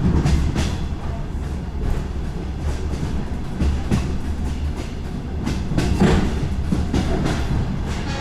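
DR1A diesel multiple-unit train running along the track: a steady low rumble with irregular clacks of the wheels over the rail joints, the loudest knocks about four and six seconds in.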